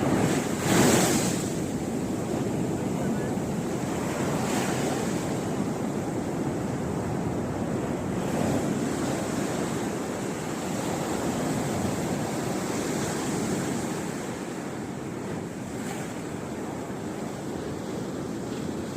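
Sea surf breaking on a beach: a steady rush of waves, with one louder surge about a second in, and wind buffeting the microphone.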